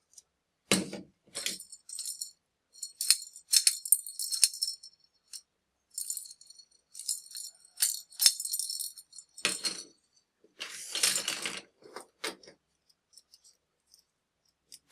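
Plastic toys and packaging being handled, giving irregular bursts of rattling and clicking with short gaps between them.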